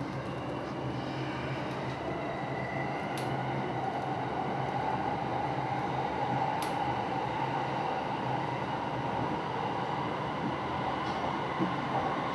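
Running noise inside a JR Joban Line commuter car on the move: a steady rumble with a whine that slowly rises in pitch. A few short knocks come near the end.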